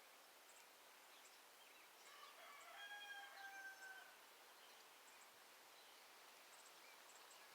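A rooster crowing once in the distance, one drawn-out call of about two seconds beginning about two seconds in. Faint, short high chirps from small birds sound here and there.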